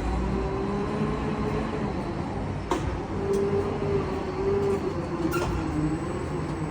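Heavy diesel machinery running steadily with a wavering whine, and a few sharp metal clinks, the loudest nearly three seconds in.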